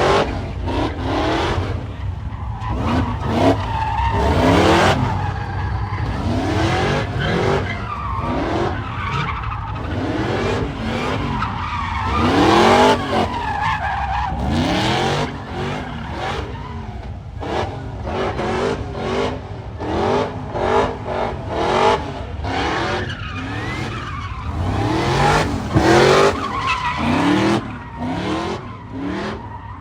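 Car engines revving hard in repeated rising sweeps over a constant low rumble, with tyre skidding noise throughout.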